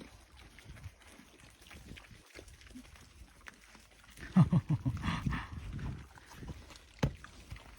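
Pigs grunting: a quiet stretch, then about four seconds in a quick run of low grunts lasting under two seconds, followed by a single sharp click near the end.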